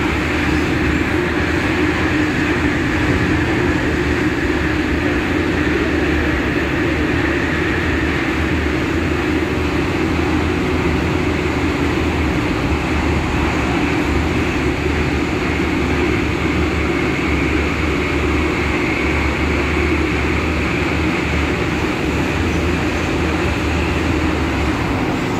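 Steady running noise inside an MTR Rotem EMU (K-Train) carriage travelling between stations: even rumble of wheels on rail and running gear.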